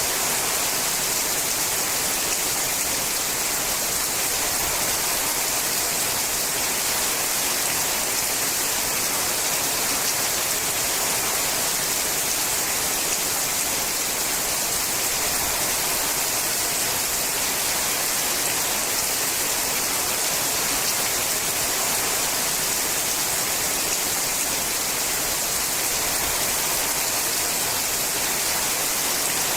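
Steady rain falling on a sheet-metal roof: an even, unchanging hiss.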